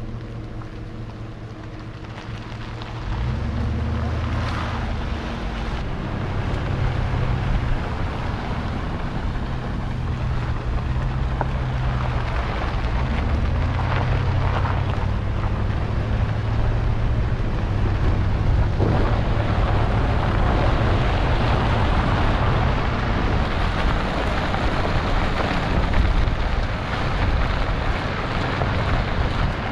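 Truck engine running steadily with a low hum. About three seconds in it gets louder, then road and wind noise build as the vehicle drives on.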